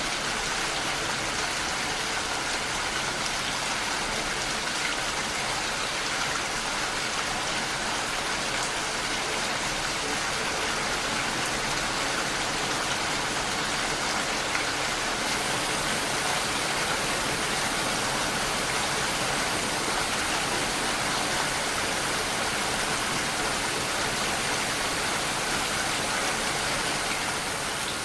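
Steady, even rainfall: a dense hiss of rain falling without letup.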